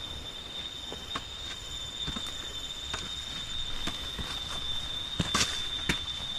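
Steady high-pitched drone of forest insects, with scattered clicks and light knocks and a louder knock about five seconds in.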